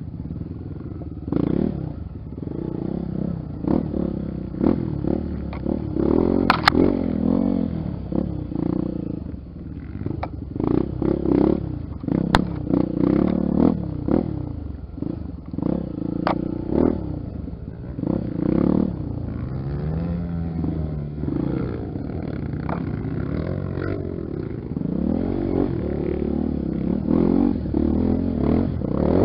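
Honda XR 250 Tornado's single-cylinder four-stroke engine, its revs rising and falling over and over, with scattered knocks and clatter.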